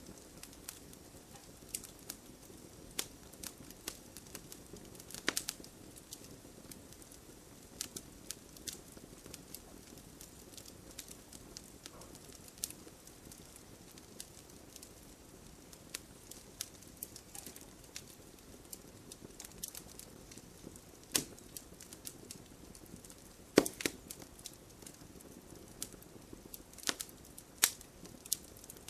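Fire crackling in a fireplace: irregular sharp pops and snaps over a soft, steady hiss of burning, with one louder pop near the end.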